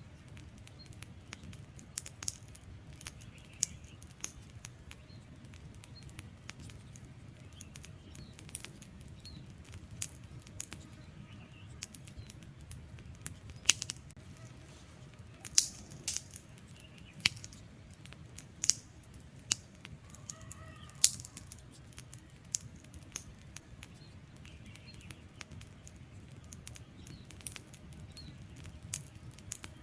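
Wood fire crackling, with irregular sharp pops and snaps of burning logs over a steady low rumble of flame. The pops come thickest and loudest in the middle.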